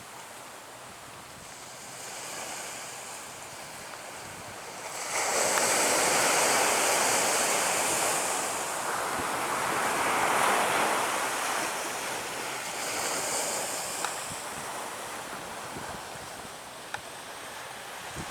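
Ocean waves breaking on the beach, a surge of surf about five seconds in that slowly washes out, with a smaller swell later, and wind buffeting the microphone.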